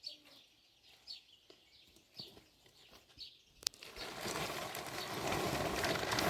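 A small bird chirping over and over, short falling chirps about twice a second. A little over halfway in there is a sharp click, and then a loud, steady rushing noise takes over.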